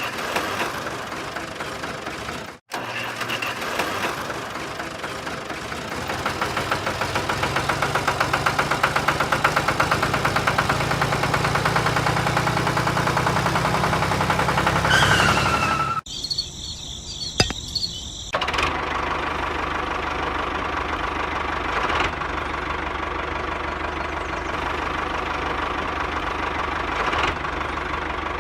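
A small engine running, heard across several clips joined by abrupt cuts, with a rapid even pulsing that is loudest through the middle stretch.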